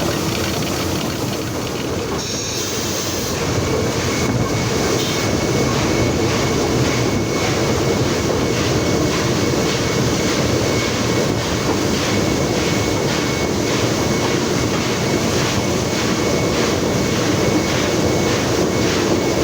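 NSW 59 class steam locomotive 5917, a 2-8-2, running along the line, heard from its cab: a steady rumble of wheels and running gear with a quick run of clicks over the rail joints. A thin steady high tone comes in about three seconds in and holds.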